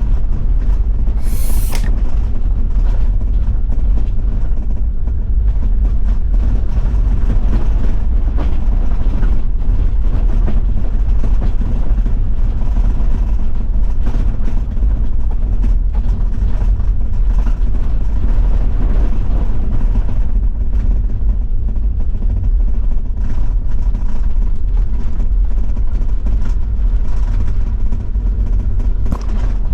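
Toyota Land Cruiser 70-series diesel running steadily while driving on an unpaved road, a loud low rumble with tyre and road noise. A short hiss comes about a second and a half in.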